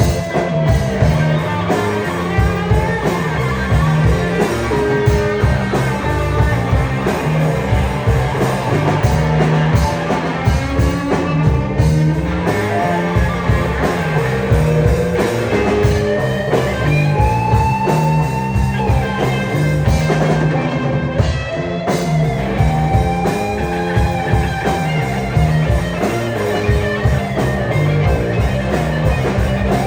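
Rock band playing an instrumental passage: drums, a driving bass line and electric guitar, the guitar playing lead lines with notes that bend up and down.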